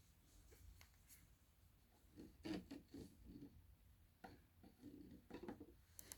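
Faint rubbing and scratching on a round cake box and its plastic lid, in a few short strokes about two and a half seconds in and again around five seconds, with a couple of light clicks near the end.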